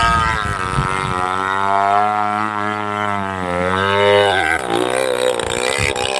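Two-stroke chainsaw engine running under load while cutting, its pitch wavering, then dropping sharply about four and a half seconds in before climbing back up.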